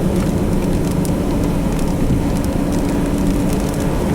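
Steady vehicle cabin noise in the rain: a low rumble with a steady hum, and rain hitting the windshield and body with faint scattered ticks.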